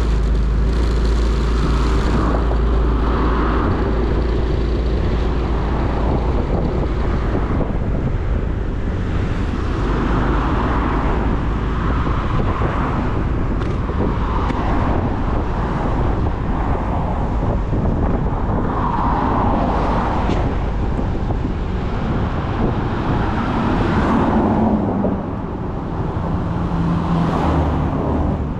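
Motorcycle riding through city traffic: its engine runs steadily under the rush of wind and road noise, with cars passing by. The level dips slightly near the end, where a steady low engine note comes through.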